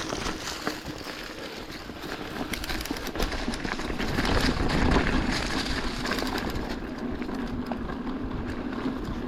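Mountain bike rolling along a forest dirt trail: tyre noise with rattles and small clicks, and a low rumble that swells about halfway through.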